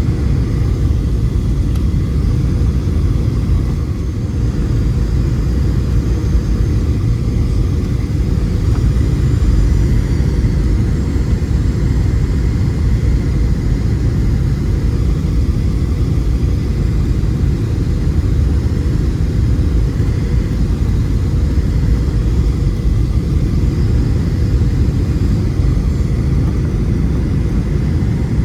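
Steady low rumble of a Boeing 737-700's CFM56 engines and airflow heard inside the passenger cabin, with a faint steady hum above it and no marked change in level.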